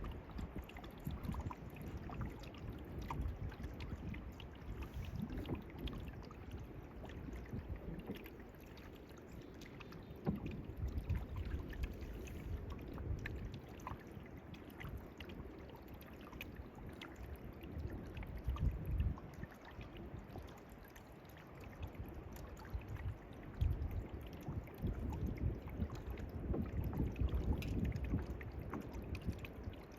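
Canoe being paddled: water splashing and dripping off the paddle and lapping at the hull, with small scattered knocks. Gusts of wind rumble on the microphone now and then, strongest about two-thirds of the way through and near the end.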